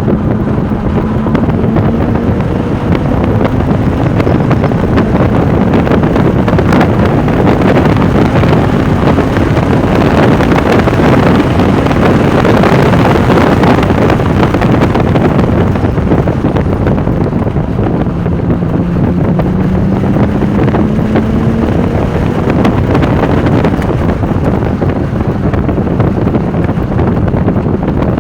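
Porsche 996 Turbo's twin-turbo flat-six pulling at speed under heavy wind noise on the microphone, its pitch climbing slowly in long pulls, with the wind and road noise loudest about halfway through.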